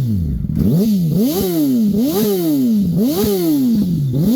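2006 Yamaha R1's inline-four engine revved in a series of about five quick throttle blips, each rising fast and falling back more slowly toward idle.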